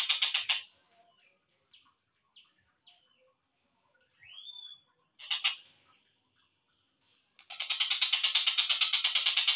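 Tengkek buto kingfisher call recording played back slowed down, used as a master recording for training songbirds. A fast, even rattling chatter of about seven notes a second stops about half a second in. Faint scattered chirps follow, then one rising whistle and a short burst, before the rattle starts again near the end.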